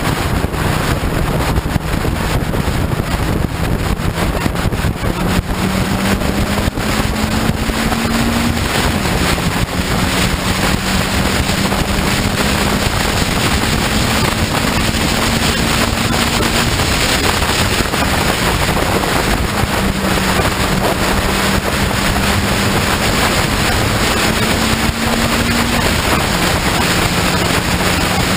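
Morgan 4/4 race car's four-cylinder engine running hard under power, its pitch climbing slowly and then dropping sharply twice as it changes up through the gears. Heavy wind buffeting on the open car's onboard microphone.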